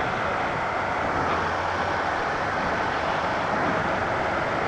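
Steady rush of wind over a motorcycle rider's microphone at road speed, with the motorcycle's engine and road noise underneath.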